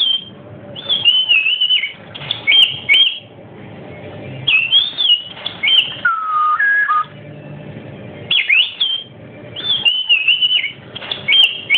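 Pet talking bird whistling and chirping in short, high, gliding phrases, repeated in groups, with one lower whistle about six seconds in.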